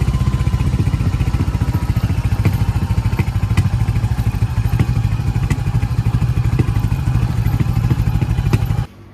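Motorcycle engine running at a steady speed, its exhaust a rapid, even beat of low pulses. It cuts off abruptly near the end.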